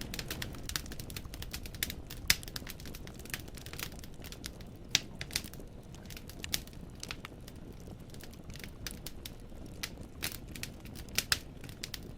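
Wood fire crackling in a fireplace: burning logs give off irregular sharp pops and snaps, a few much louder than the rest, over a low steady rumble of flame.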